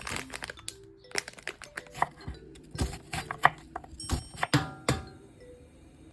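Irregular crinkling, tearing and sharp clicks and knocks of plastic packaging being handled, most busy in the middle few seconds, over soft background music.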